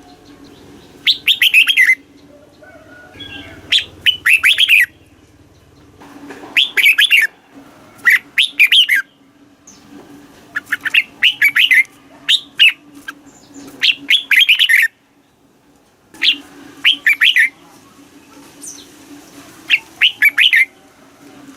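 Red-whiskered bulbul singing: short, quick phrases of rapid notes, repeated every second or two with brief pauses between, over a faint steady low hum.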